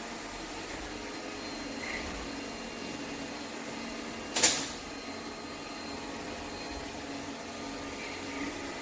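ECOVACS Deebot T50 Omni robot vacuum running with a steady mechanical hum. A single sharp click about halfway through.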